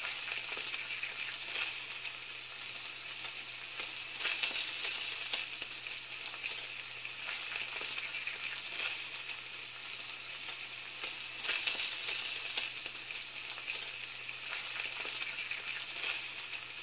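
Food sizzling in a frying pan: a steady hiss with scattered crackles and pops.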